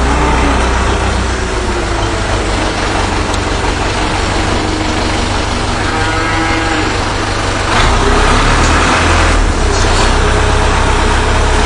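Farm tractor or combine diesel engine running, its low hum steady, with a slow rise and fall in pitch in the second half.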